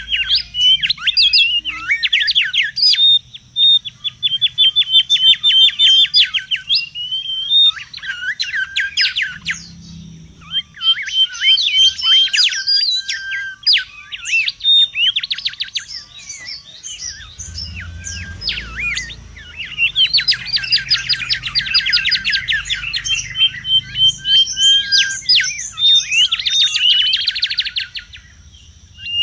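Mangrove whistler calling busily: rapid runs of short whistled notes and fast trills, several overlapping at times.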